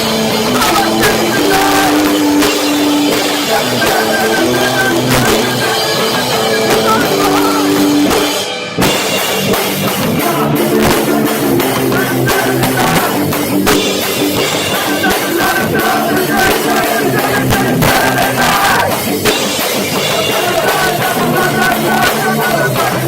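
Live heavy rock band playing loud, with drums, guitar and shouted singing, recorded through a cheap phone microphone so the sound is harsh and muddy. The music breaks off for a moment about eight and a half seconds in, then starts again.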